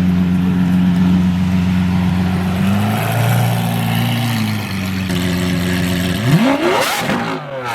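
Supercar engine running at a low steady idle, then blipped hard about six seconds in, its pitch rising quickly and falling back.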